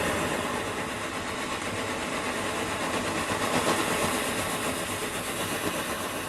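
Homemade methylated-spirit model-steam 'Supa Burner' just lit: the excess spirit is burning off as an open flame before the vaporised jet starts, giving a steady, even noise.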